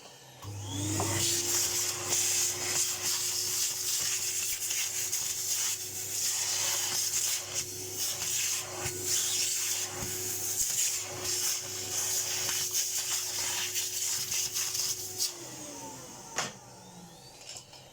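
A vacuum cleaner is switched on, its motor quickly rising to a steady whine with a hiss of sucked air, while the nozzle scrapes and rattles over dirt inside the old cleaner's housing. It is switched off about 15 seconds in and winds down.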